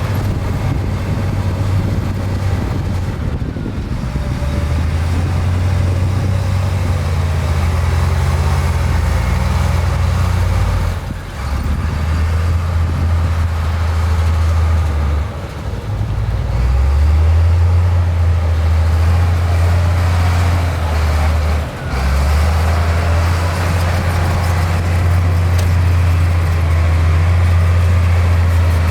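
Diesel engine of heavy earthmoving machinery running close by, a loud, steady low drone that changes pitch several times as the machine works, with three brief dips in loudness.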